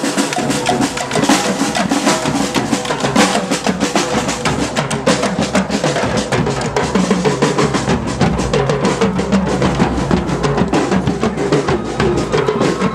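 Drumming: percussion music with bass and snare drums, a dense, fast run of strikes.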